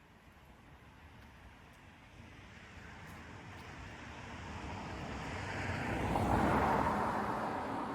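A car approaching and passing, its road noise building gradually to a peak about six and a half seconds in, then fading.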